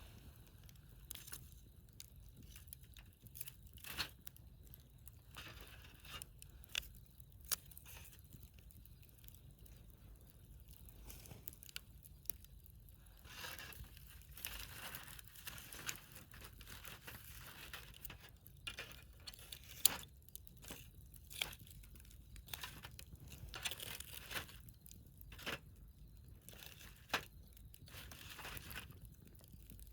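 Wood fire burning in its middle stage, crackling with irregular sharp pops over a soft hiss.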